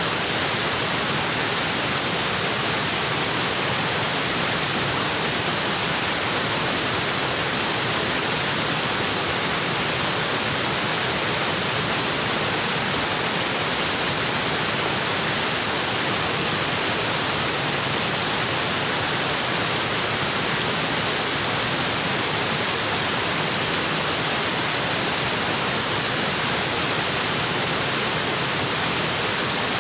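Waterfall in a tropical forest: water falling onto rocks in a steady, unbroken rush.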